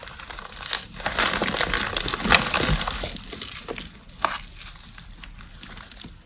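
Gym chalk and cornstarch being crushed, a dense crunching from about a second in until about three and a half seconds, then scattered small crackles.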